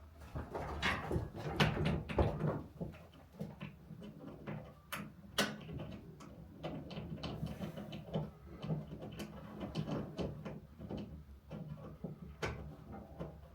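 Irregular small clicks and light knocks of a ceiling light fixture and its metal mounting bracket being handled and fitted together by hand.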